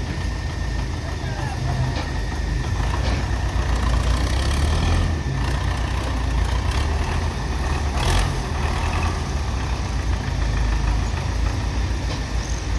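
Heavy diesel engines of a tractor and trucks running at idle in a steady, continuous drone. A single sharp clank is heard about eight seconds in.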